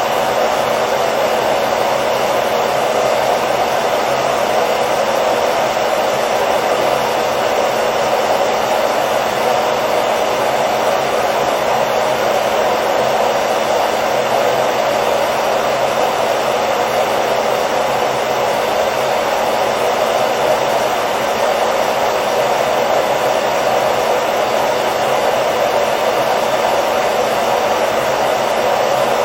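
Hair dryer running steadily: a constant rushing blow of air with a motor hum, unchanging throughout.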